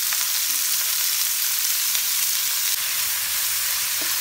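Sliced shallots sizzling steadily in hot oil in a frying pan, with a wooden spatula stirring through them near the end.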